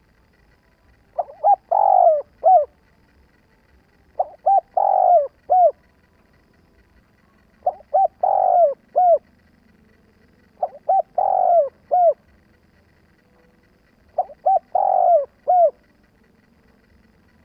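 Spotted dove cooing: five phrases, about one every three seconds. Each phrase is a couple of short coos, a longer, louder middle coo and a short final note.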